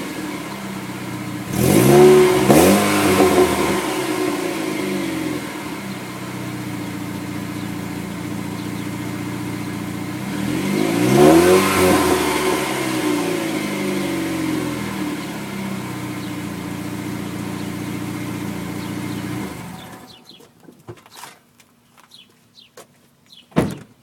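Supercharged 2.0-litre four-cylinder engine of a 2007 Chevrolet Cobalt SS, exhaust running through a high-flow catalytic converter. It idles and is revved twice, about two seconds in and again around eleven seconds. The engine cuts off near the twentieth second, leaving a few faint clicks and a sharp knock near the end.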